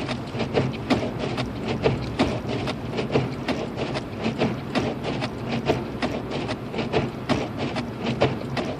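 Inside a car driving through a snowstorm: a steady low engine and road hum, with rapid, irregular ticks and taps several times a second.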